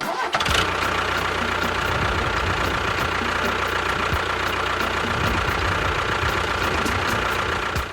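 Engine running steadily with a low rumble, starting suddenly and cutting off at the end.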